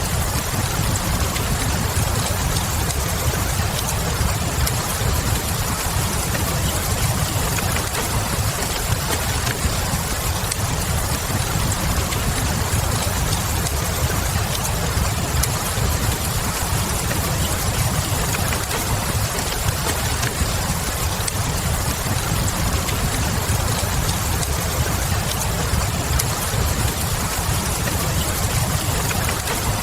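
Steady rain hiss over a low, even rumble, with faint crackling from a wood fire.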